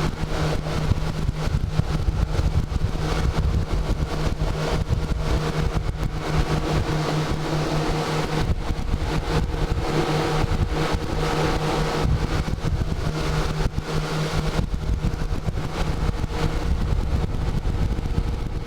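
An engine running steadily at close range, with a constant low hum and a dense rush of noise over it.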